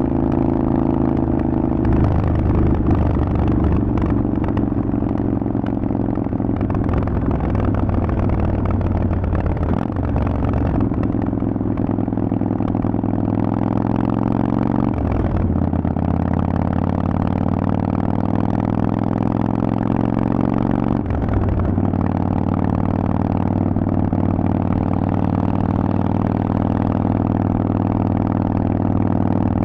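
Harley-Davidson Sportster Forty-Eight's air-cooled V-twin through a Vance & Hines aftermarket exhaust, running under way. Several times the engine note breaks off briefly and comes back lower, then slowly climbs again as the bike is shifted up through the gears.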